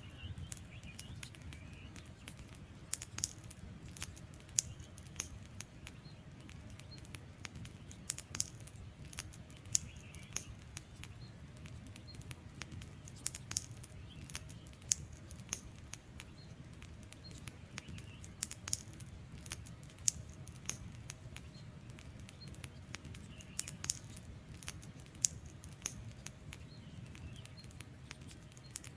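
Wood fire crackling: irregular sharp pops and snaps of burning logs over a low steady rumble of flames.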